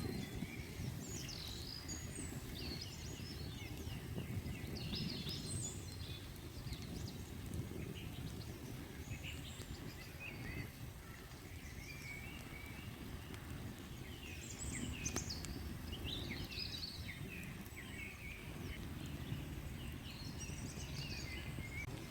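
Songbirds chirping and trilling on and off over a steady low background rumble.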